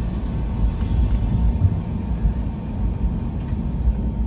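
Cabin noise inside an Airbus A320 on the ground before takeoff: a steady low rumble from the airframe and idling jet engines, with a faint steady whine above it.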